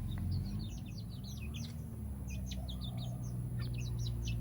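Birds chirping in quick, short, high calls, over a low steady hum.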